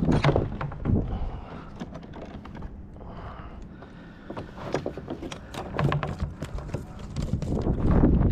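Scattered clicks and knocks aboard a kayak, with wind buffeting the microphone as a low rumble that grows louder near the end.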